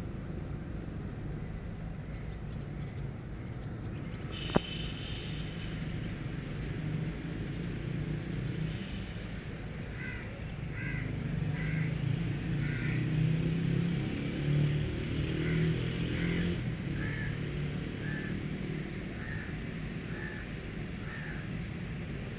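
A bird, crow-like, cawing in short calls about once a second through the second half, over a steady low outdoor rumble. A single sharp click comes about four and a half seconds in.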